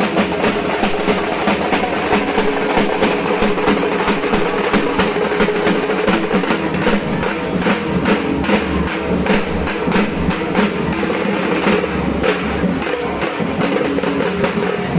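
Dhak, the large Bengali barrel drum, beaten with thin sticks in a fast, dense rhythm of rapid strokes and rolls.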